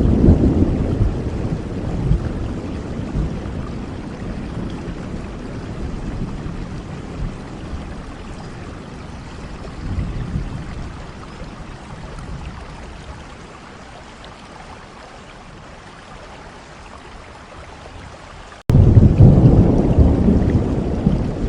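Steady rain with rolling thunder that slowly dies away over the first fifteen seconds or so, leaving softer rain. Near the end the sound cuts out for an instant and comes back much louder, with heavy low rumbling over the rain.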